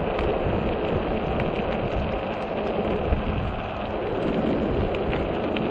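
Wind rushing over the microphone on a moving e-bike, a steady noisy rush with no speech.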